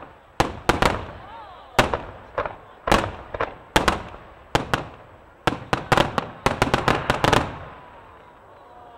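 Aerial firework shells bursting in rapid succession: sharp, loud bangs, irregular at first, then packed close together in a dense barrage between about five and a half and seven and a half seconds in. The barrage stops and the bangs fade into a rolling echo.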